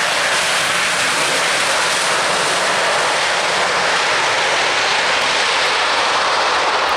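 Jet airliner's engines passing close by: a loud, steady rushing noise that holds its level.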